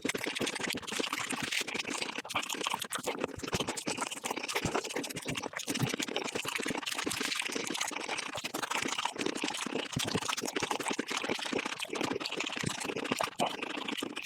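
Close-miked eating sounds of a person chewing chicken, played back at five times normal speed, so the bites and chews run together into a dense, fast stream of clicks and crunches.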